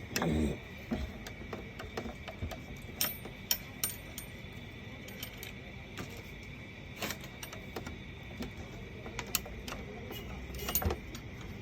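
Scattered light clicks and clinks of small metal and plastic parts handled during disassembly of a paper shredder's gear train, with a few sharper knocks among them.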